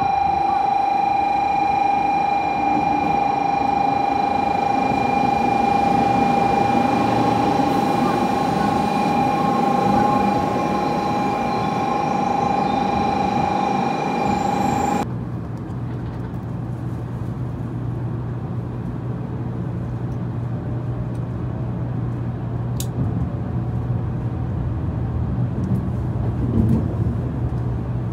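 A Shinkansen bullet train running alongside the platform, with a steady high tone sounding over its rumble. About halfway through, the sound changes abruptly to the low, steady hum and rumble of the train's cabin at speed.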